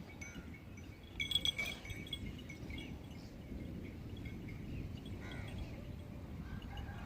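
Outdoor rainy-day ambience: a steady low rumble with scattered high ringing tones and chirps, loudest in a short cluster of bright ringing notes about a second in.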